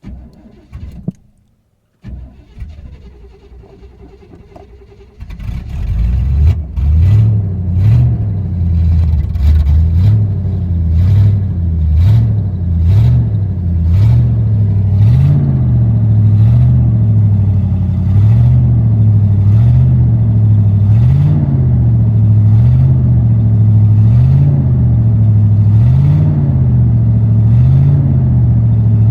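Cold start of a 1977 GMC Sprint's 350 V8: after a few seconds of quieter sounds the engine catches about five seconds in. Its pitch rises and falls about once a second for roughly ten seconds, then it settles into a steady, even idle.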